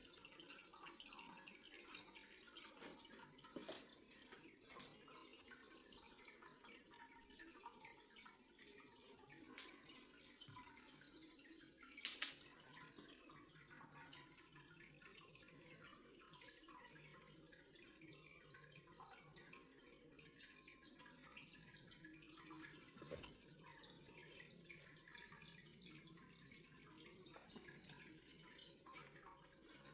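Faint water dripping and trickling, scattered small drips, with one brief sharper sound about twelve seconds in.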